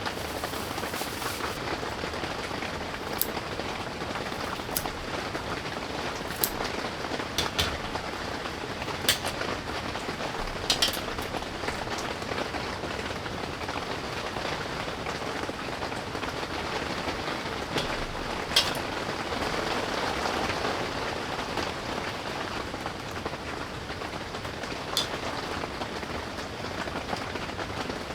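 Steady rain falling, with scattered sharp taps of single heavier drops.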